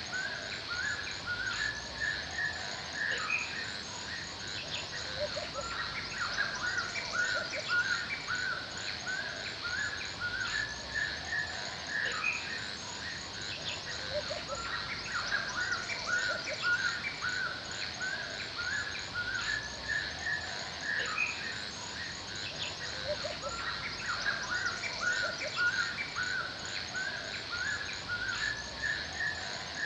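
Forest soundscape: several birds chirping over and over in quick runs, over a steady, even high-pitched insect trill.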